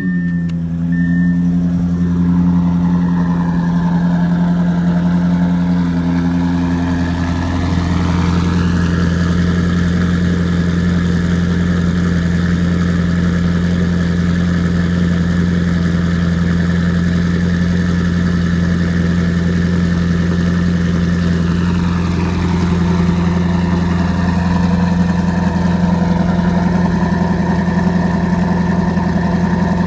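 Audi S7's twin-turbo V8 with an Akrapovic exhaust idling steadily just after a cold start. Its tone shifts slightly about a third of the way in and again about three-quarters of the way in.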